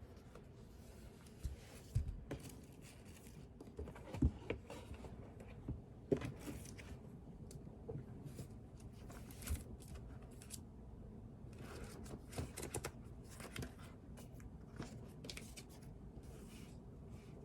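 Writing and paper handling at a desk: irregular scratchy strokes of a pen or pencil on paper and paper rustling, with a few soft knocks on the desk.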